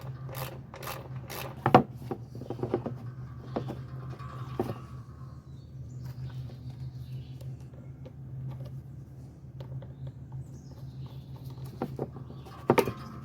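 Hand tools and mower parts being handled: scattered clicks and knocks, the loudest about two seconds in and another pair near the end, over a steady low hum.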